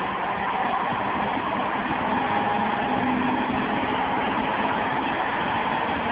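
A vehicle engine running steadily, under a dense, even noise.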